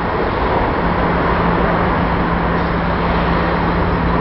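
Steady industrial machinery noise with a constant low hum that grows stronger about a second in.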